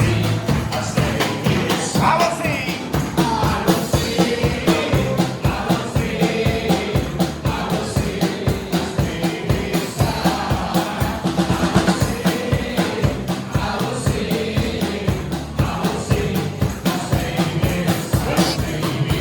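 Live worship music: a band playing a steady, driving beat while a group of voices sings along.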